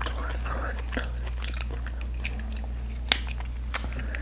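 Close-miked chewing of saucy seafood, with wet mouth sounds and scattered sharp smacks and clicks.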